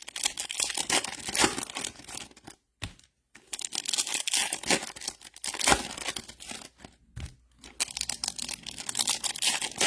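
Trading card pack wrappers being torn open and crinkled by hand, in irregular crackling bursts with short pauses about three and seven seconds in.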